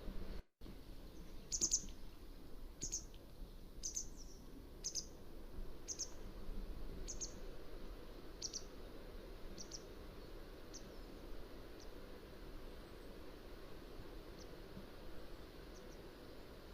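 Mountain wagtail calling: a series of short, sharp, high-pitched calls about once a second that grow fainter and thin out after about ten seconds. There is a brief dropout in the audio about half a second in.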